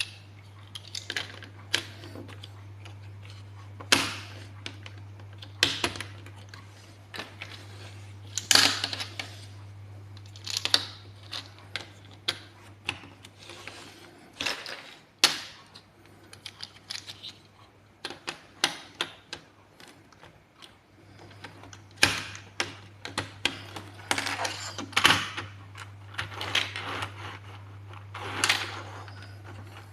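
Plastic building blocks being handled and pressed together: irregular sharp clicks and rattles, a few of them loud snaps.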